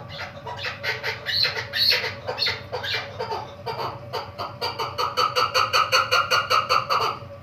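Female chukar partridge calling. Uneven clucking notes come first, then from about halfway a fast, even series of about five notes a second that stops suddenly near the end.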